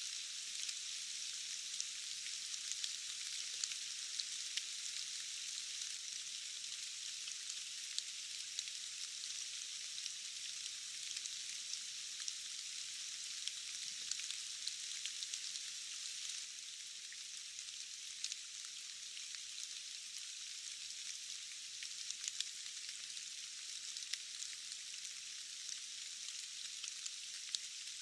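Steady rain falling on foliage, a continuous high hiss dense with small drop ticks, with almost no low rumble.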